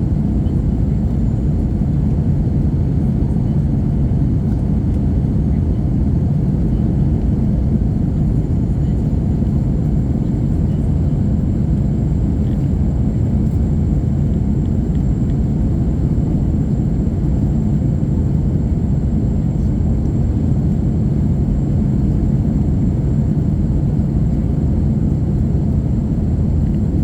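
Steady low rumble inside the cabin of an Airbus A321-231, its IAE V2500 turbofans and the airflow heard from a rear window seat, with a faint thin high whine above.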